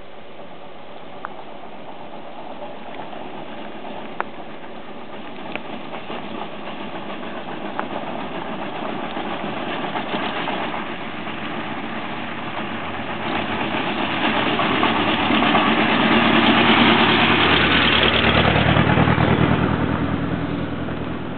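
An engine running, growing steadily louder, loudest near the end with a low regular beat, then fading as it passes close. A few sharp clicks or knocks sound in the first several seconds.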